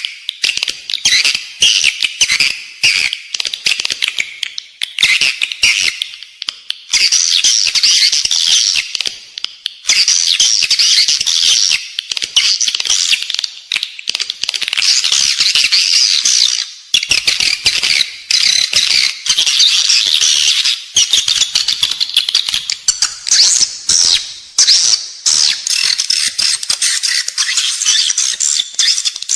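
Edible-nest swiftlet calls, the 'inside the building' lure recording used to draw swiftlets into a nesting house: a dense, continuous high twittering and chirping of many birds, full of rapid clicks.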